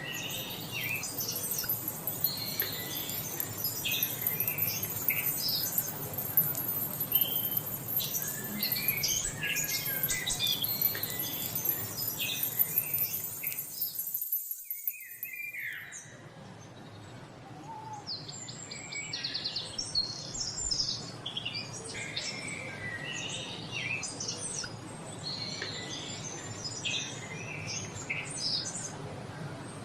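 Many birds chirping and calling over a steady background hiss. About halfway through, the sound briefly drops away, then the birdsong picks up again.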